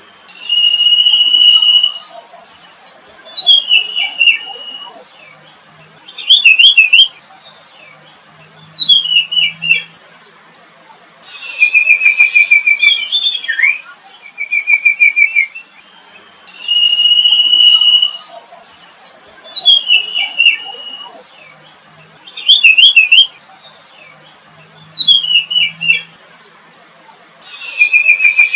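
Bird song: a string of separate whistled phrases and quick trills, each one to two seconds long with short pauses between, the same run of phrases coming round again about halfway through.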